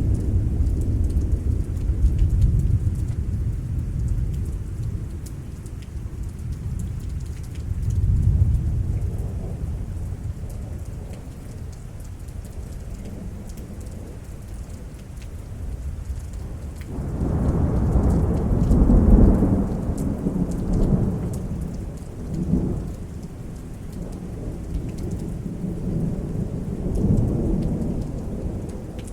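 Thunder rumbling and rolling from a thunderstorm over steady rain falling. The rumbles come and go several times, and the longest and loudest swells up about two-thirds of the way through.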